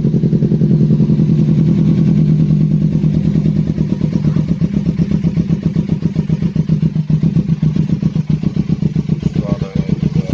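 Kawasaki Ninja 250 engine running at a steady idle through an aftermarket racing slip-on exhaust, a low even exhaust note with a fast pulsing beat.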